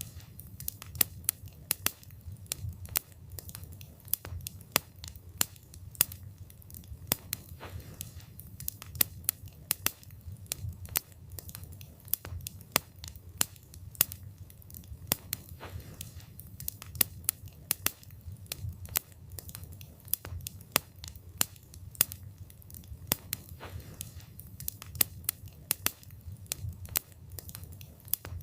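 Wood fire burning, with a steady low rumble of the flames under frequent sharp crackles and pops from the burning wood, several a second.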